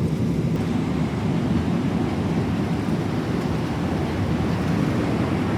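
Steady low roar of a Boeing 777-300ER airliner cabin in cruise: engine and airflow noise heard from inside the economy cabin.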